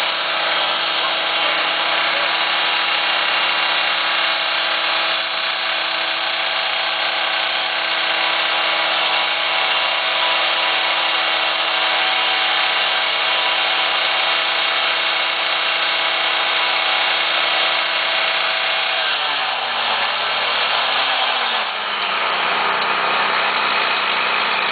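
Small engine on rail-track maintenance equipment running steadily at high speed. About nineteen seconds in its pitch drops, wavers back up briefly, then settles into a lower, steadier running sound.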